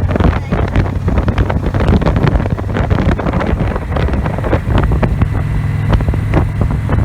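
Victory Vision motorcycle's V-twin engine running steadily at road speed, with heavy wind buffeting on the microphone.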